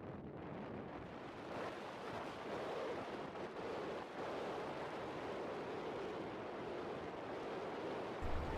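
Steady rushing wind noise on the microphone, like air streaming past a camera in flight, with a low rumble coming in near the end.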